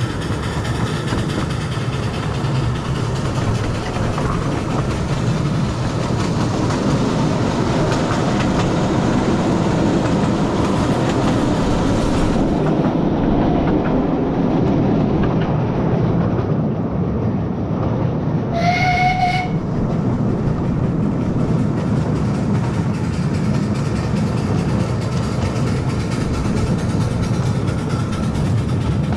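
Narrow-gauge train running along the track with steady rumble and wheel clatter. About two-thirds of the way through, it sounds one short whistle or horn blast.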